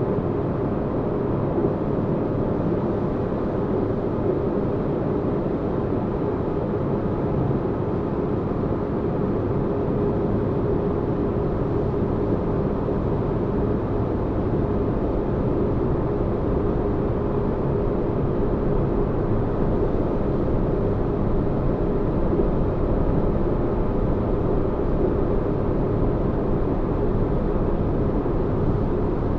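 Steady, deep rumbling spaceship ambience, a low noise like an engine drone with a faint steady hum, made for sleep.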